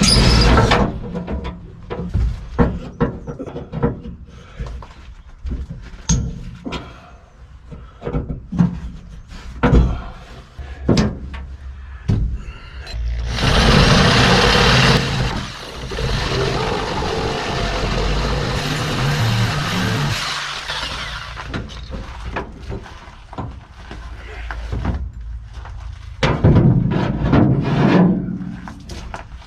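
Metal work on an old truck cab: scattered knocks and clanks, then a power tool runs steadily for about eight seconds from roughly halfway through.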